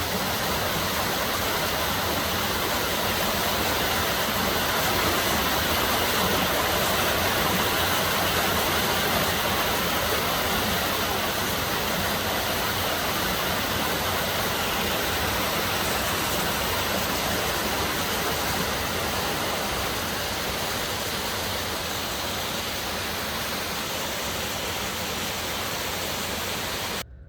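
Steady rushing of fast-flowing water, which cuts off suddenly near the end.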